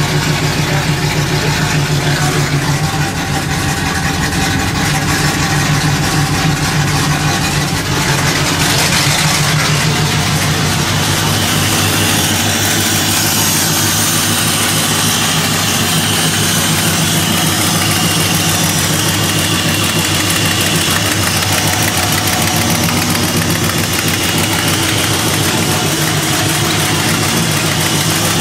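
1994 GM LT1 5.7-litre V8 idling steadily, heard first from the driver's seat and then at the open engine bay.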